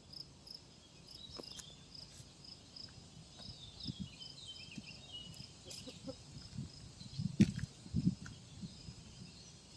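An insect chirping steadily outdoors, a high pulse repeating about three or four times a second. Low thumps and knocks of handling or rustling come in from about four seconds, the sharpest one just after seven seconds.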